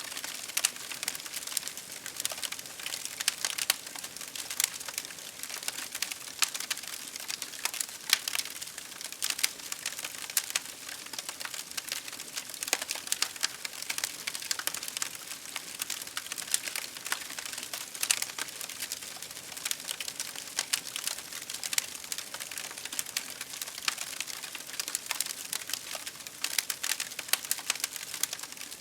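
Campfire crackling: a dense, irregular run of small pops and snaps over a steady hiss of rain.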